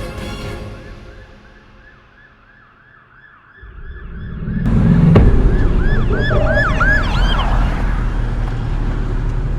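A siren in fast rising-and-falling yelps, muffled at first, then suddenly loud with a thud about five seconds in, and fading out after a few seconds. Under it is a steady low vehicle engine rumble.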